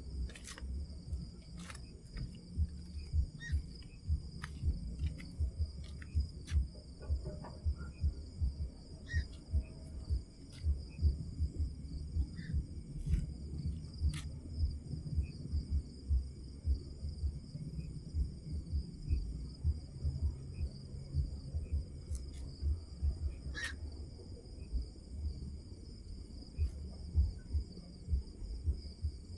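Crickets chirring steadily in a continuous high chorus, over a low, uneven rumble, with a few sharp clicks scattered through.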